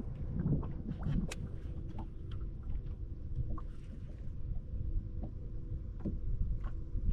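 Fishing boat on the river: a low, uneven rumble of wind and water against the boat, a faint steady hum, and scattered small clicks and knocks.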